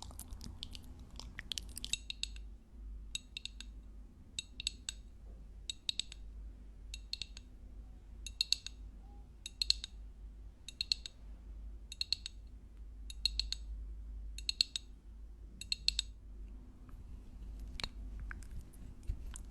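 Close-miked ASMR chewing, mouth right at the microphone: a crisp, crackly bite-and-chew repeated evenly about once every second and a quarter, about a dozen times, thinning to scattered soft clicks near the end.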